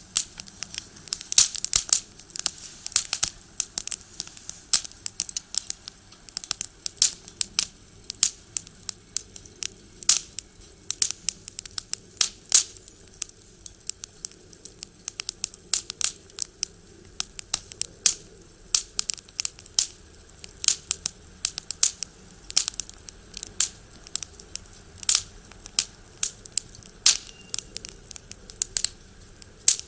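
Firewood crackling in a box stove: irregular sharp pops and snaps, several a second.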